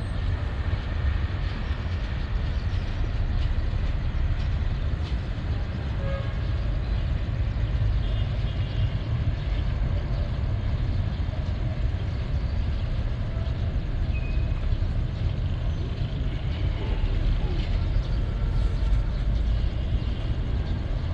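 Steady low rumble of a departing passenger train running away down the line, heard from trackside at a distance.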